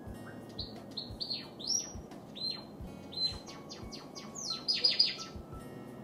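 Java sparrow chirping: a run of short, high, downward-sliding calls that come faster and louder in a rapid cluster about four to five seconds in.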